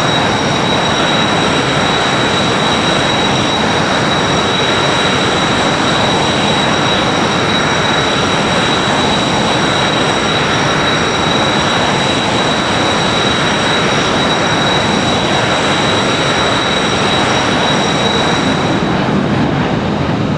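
Rafale M jet engines running steadily and loudly, a dense rush of noise with a high turbine whine on top. The whine drops away near the end.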